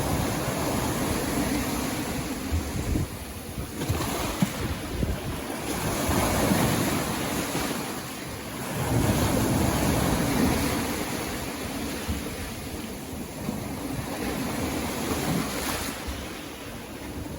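Sea waves breaking and washing up a beach, a continuous wash that swells and ebbs every few seconds.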